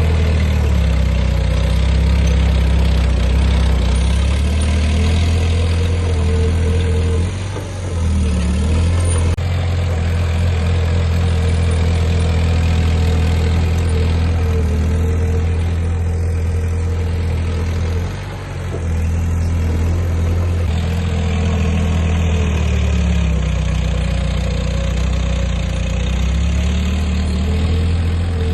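Heavy diesel engine of earthmoving machinery running steadily, its low hum rising and falling in pitch as it works, with two brief dips in loudness.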